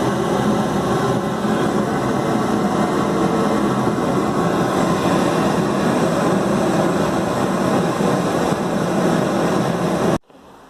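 Homemade propane forge burner, built from 25 mm pipe, running steadily with the continuous noise of gas burning at the nozzle. It cuts off suddenly near the end.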